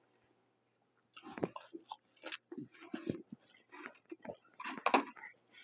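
Close-up chewing: a person eating with irregular wet mouth smacks and clicks, starting about a second in.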